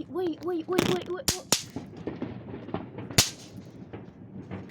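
Bang snaps (snap pops) cracking sharply as they hit the ground: three in quick succession about a second in, then a louder one about three seconds in. They follow a warbling tone that rises and falls about three times a second in the first second.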